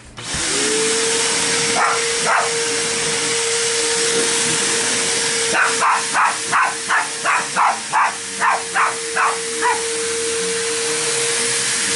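Vacuum cleaner switched on, its motor spinning up to a loud, steady hiss and whine, while dogs bark at it: two barks about two seconds in, then a quick run of about a dozen barks in the middle.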